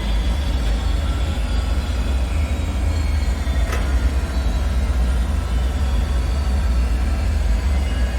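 Dark ambient drone: a steady deep rumble with faint, slowly drifting metallic tones above it, and a brief faint sweep about three and a half seconds in.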